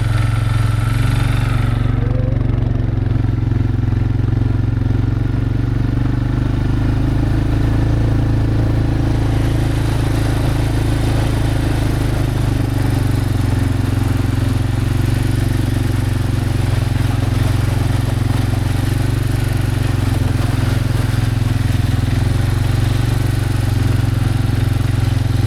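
Vehicle engine running steadily while driving, a constant low drone with no change in pace.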